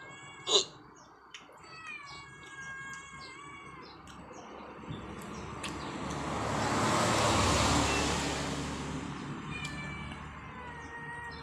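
A cat meowing several times with long, drawn-out calls. In the middle a vehicle passes, its noise swelling and fading away.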